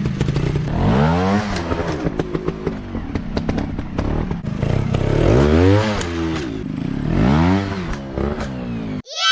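Dirt bike engines revving up and falling back three times, with rattling clatter throughout. Just before the end the sound cuts off abruptly into a different falling, many-toned glide.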